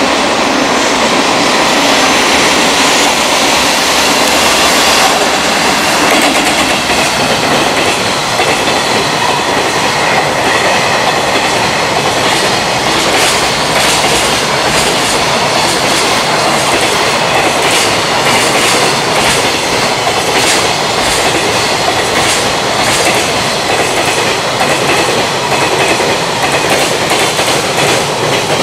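A freight train hauled by an EF210 electric locomotive passes close by with a long string of container wagons: a steady loud rumble of steel wheels on rail. From about halfway on, the wheels clack over rail joints in a repeating rhythm.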